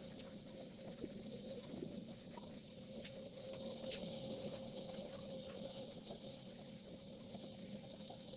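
Faint steady hum with a few light clicks and taps scattered through it.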